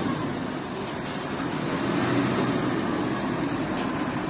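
Dongfanghong LX1504 tractor's six-cylinder diesel engine running under load as it reverses up onto a steep unloading ramp, its wet tyres slipping.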